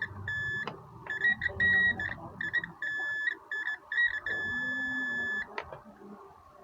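Multimeter continuity buzzer beeping in short, irregular beeps at one high pitch as the probes touch points on a hard disk circuit board, then sounding steadily for about a second before stopping. The steady tone signals a continuous connection, which the technician takes for a short circuit.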